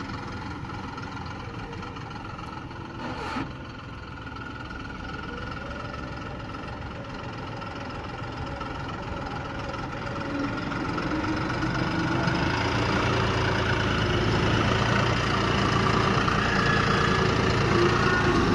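An engine running steadily, growing louder over the second half, with a single knock a few seconds in.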